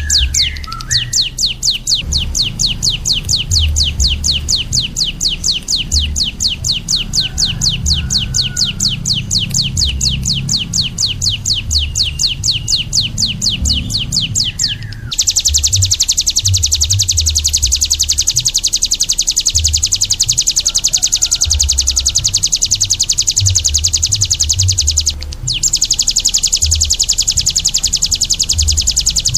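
Caged songbird singing a long, rapid trill of evenly repeated high notes. It breaks off about halfway and comes back louder and denser, then pauses briefly near the end.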